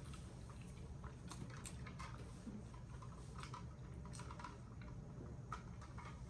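Close-miked chewing and wet mouth sounds from someone eating chili-topped food, with soft, irregular clicks, over a steady low hum.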